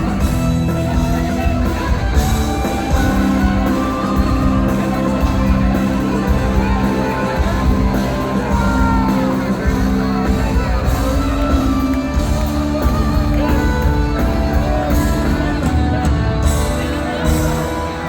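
A band playing amplified music live in a large hall, with a steady drum beat under sustained guitar and bass notes. Voices sing and shout over the music.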